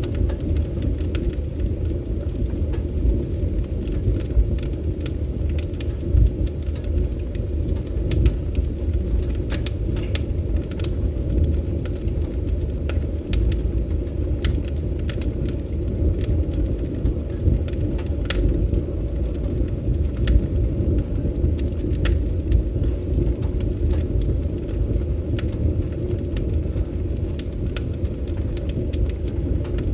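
Wood fire burning in a fireplace: a steady low noise from the flames, with frequent sharp crackles and pops scattered irregularly throughout.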